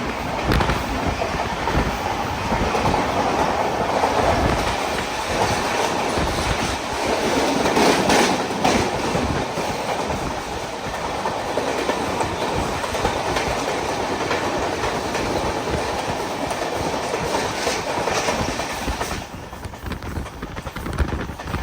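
Train running on the Konkan Railway line: a steady rumble with wheels clattering over the rail joints, easing off and getting quieter about nineteen seconds in.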